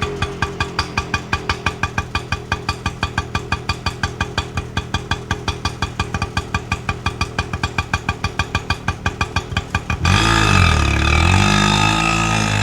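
Auto rickshaw engine idling with an even putt-putt of about five beats a second. About ten seconds in it cuts to a louder sound whose pitch wavers up and down.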